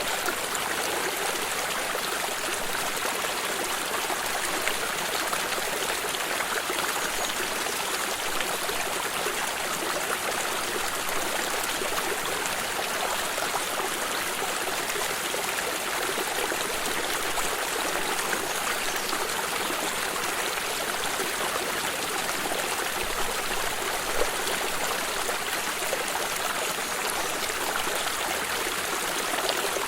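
Stream of water flowing and trickling steadily, an even rushing babble with small splashes.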